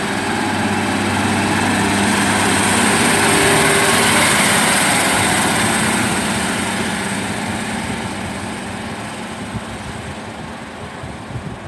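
Class 153 single-car diesel multiple unit pulling away under power, its diesel engine running hard. It grows louder to a peak about four seconds in, then fades as the train moves off.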